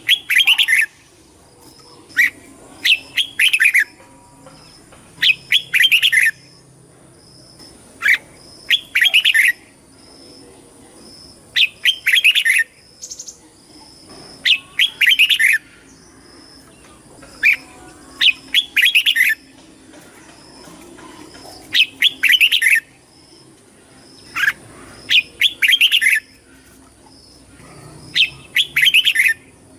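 Red-whiskered bulbul singing: short, bright warbled phrases about a second long, repeated every two to three seconds.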